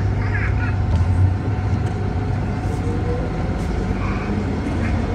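MTR M-Train electric multiple unit running with a steady low rumble and hum, its traction motor whine rising in pitch from about three seconds in as the train picks up speed.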